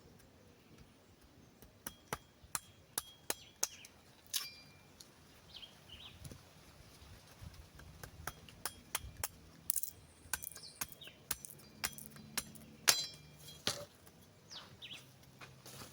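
Thin wooden sticks clicking and knocking against each other as they are handled and fitted onto a stick-built bird trap, in irregular sharp taps with one louder knock near the end.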